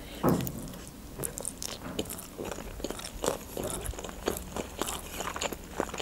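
Someone biting into a sushi roll topped with chuka seaweed salad, the loudest sound about a quarter second in, then chewing it with many short clicks of the mouth, close to the microphone.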